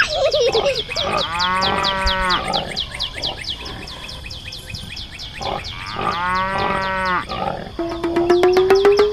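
Two long moos from a cow, each about a second and a half, over a fast, steady run of high repeated chirps.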